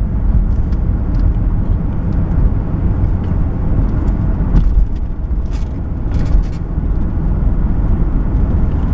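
Steady engine and road rumble from inside the cabin of a 2000 Jaguar XK8 with its 4.0-litre V8, the car pulling along with no foot on the accelerator. The engine is running away on its own after a rebuilt throttle body was fitted, which the owner takes for a throttle position sensor that was not calibrated.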